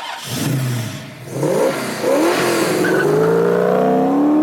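Car engine accelerating hard, its pitch climbing, dropping back and climbing again several times as it goes up through the gears, the last and longest pull running through the second half.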